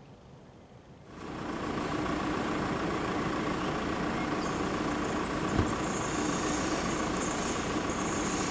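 A train passing over the level crossing: a steady rumble with a low hum that rises in about a second, joined from about four seconds in by a flickering high squeal from the wheels on the rails.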